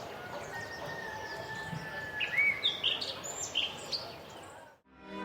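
Small songbirds chirping in quick high notes over a steady outdoor hiss, the same run of chirps coming round twice. It fades out shortly before the end, where music begins.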